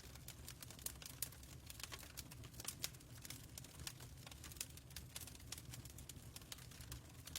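Fireplace fire crackling faintly, with irregular sharp pops and snaps over a low steady rumble.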